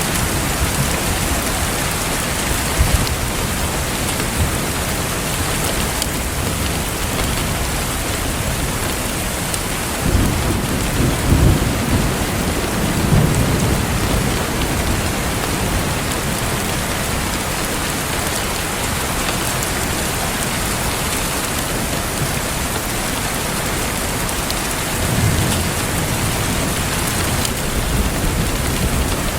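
Steady rain falling on a surface, with low rumbles of thunder swelling up about ten seconds in and again near the end.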